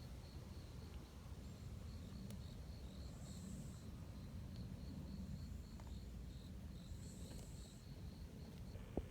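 Outdoor ambience with an insect chirping in a steady series of short high pulses. A higher buzz comes in twice, about three seconds in and again about seven seconds in, over a faint low rumble.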